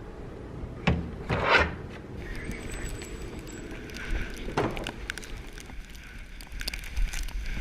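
Skis scraping and swishing on snow, with knocks about a second in, a louder swish soon after, another a few seconds later, and scattered sharp clicks near the end.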